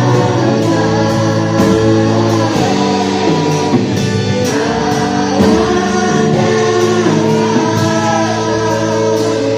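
Portuguese-language Christian worship song: choir-style singing over a band with a steady drum beat.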